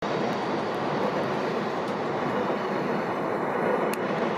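A train running along the station tracks below, a steady, unbroken noise.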